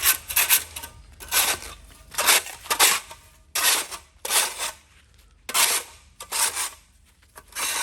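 Hand weeding tool scraping and cutting weeds off the ground in repeated strokes, about one a second.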